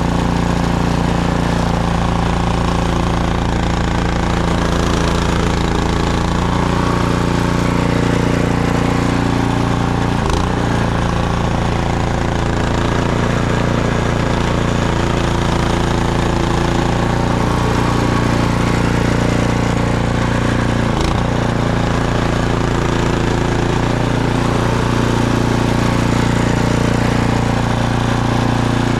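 Gas snowblower engine running steadily under load while throwing snow, with a couple of brief knocks partway through.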